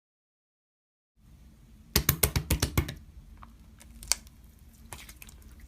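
A quick run of sharp clicks about two seconds in, then a few scattered single clicks over a low steady hum.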